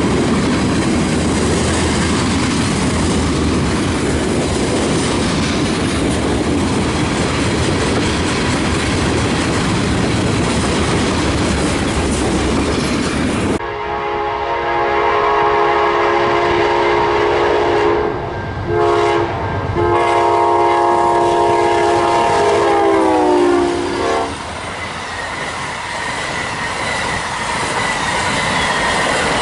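Train rolling past with steady wheel-and-rail noise, which breaks off abruptly about halfway through. A locomotive's multi-chime air horn then sounds three blasts, long, short, long, its pitch sagging as the last one dies away, and train rolling noise follows.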